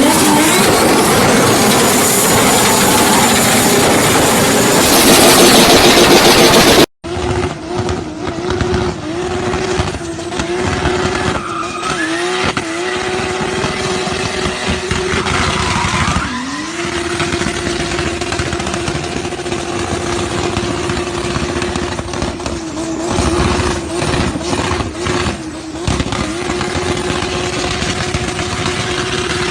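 Turbocharged car engines on anti-lag and two-step launch control, with rapid pops and bangs from the exhaust. For the first seven seconds one car makes a loud, dense roar. After a cut, another engine holds steady revs on the limiter, dipping briefly now and then, with a crackle of bangs.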